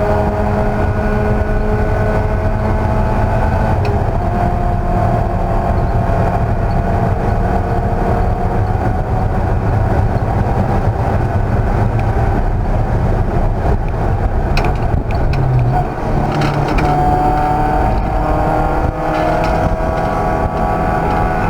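Race car engine running hard at high revs, its pitch climbing slowly under sustained acceleration. The sound dips briefly twice in the second half.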